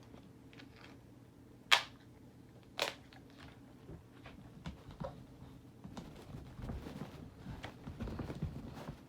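Adhesive tape being ripped, with two short sharp rips about a second apart, then quieter handling and tapping noises as the tape is worked onto a plastic toy.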